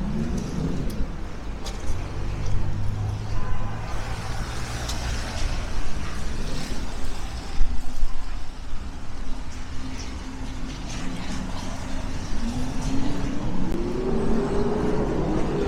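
Street traffic: motor vehicles running past with a steady low hum. Near the end one engine's note climbs and then falls away.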